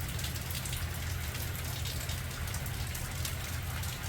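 Steady rain falling, a dense patter of drops hitting surfaces over a low rumble underneath.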